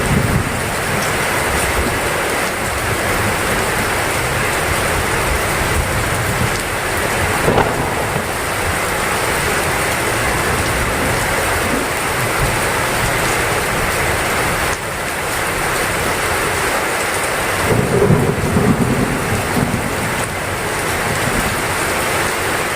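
Heavy rain pouring steadily, with low rumbles of thunder swelling at the start and again about three quarters of the way through.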